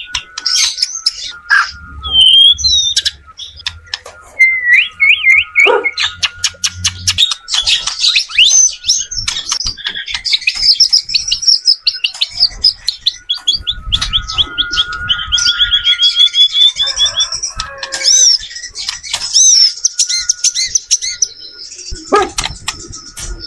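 White-rumped shama singing a long, varied song of whistled notes, pitch glides, rapid trills and sharp clicking notes, with hardly a pause.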